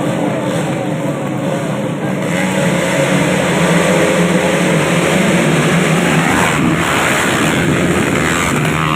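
Racing motorcycle engines revving hard as bikes pass at speed, swelling loudest a few seconds in.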